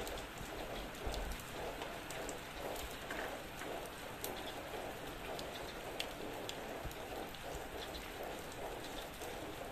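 Steady rain falling on surfaces, a continuous patter with many individual drops ticking close by.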